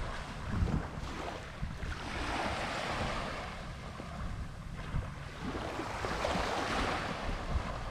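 Ocean waves washing onto the beach in repeated swells, with wind rumbling on the microphone.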